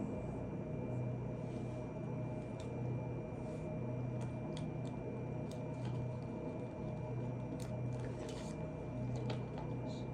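Scattered light clicks and ticks, irregular and a few a second at most, over a steady low hum with a faint high whine.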